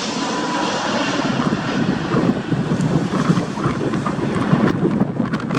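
Gulf Air Airbus A321 jet airliner flying past on its landing approach: a steady jet-engine roar, its hiss thinning out after a couple of seconds.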